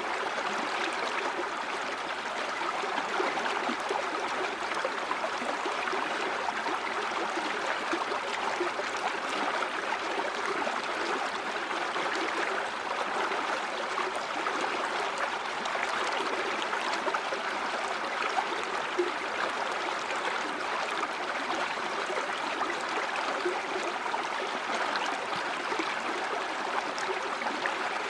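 A river or stream flowing steadily over stones, a continuous rush of water with small splashes and gurgles.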